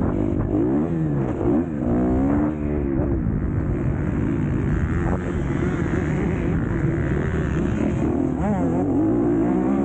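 MX2 motocross bike engine running hard, its pitch rising and falling repeatedly as the throttle is opened and closed.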